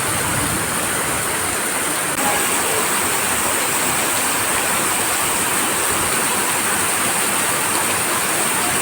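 Heavy rain falling steadily, a dense even hiss with a slight jump in level about two seconds in.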